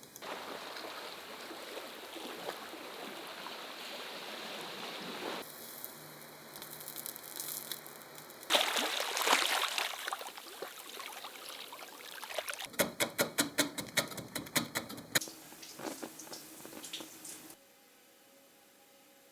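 Running, trickling water with a steady rain-like hiss that changes abruptly several times, with a quick run of about ten sharp ticks in the middle. It drops to a faint hum near the end.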